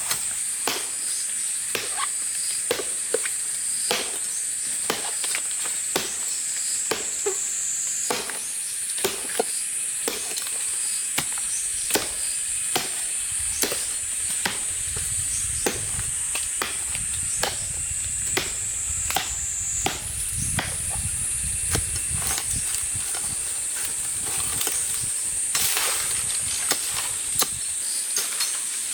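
Repeated sharp chopping blows from a blade, roughly one or two a second at an uneven pace, over a steady high-pitched insect drone.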